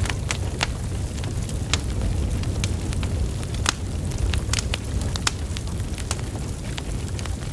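Wood fire burning steadily, with a low rumble of flames and irregular sharp crackles and pops from the logs, a few a second.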